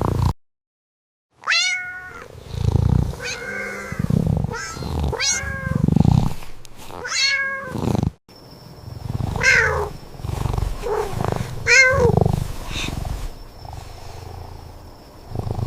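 A cat meowing over and over, each meow falling in pitch, with low purring between the calls.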